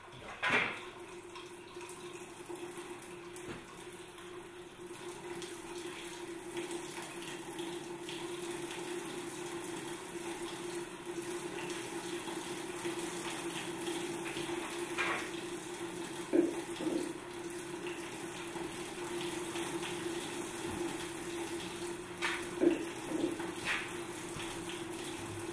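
Water running and splashing steadily in a small tabletop waterfall model, with a steady hum underneath. A few short knocks come about half a second in, twice in the middle and a few times near the end.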